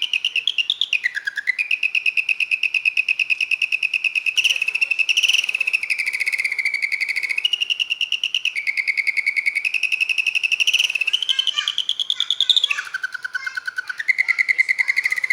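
A songbird singing long rolling trills: fast repeated notes held on one pitch for a second or two, then stepping up or down to a new pitch, with no break.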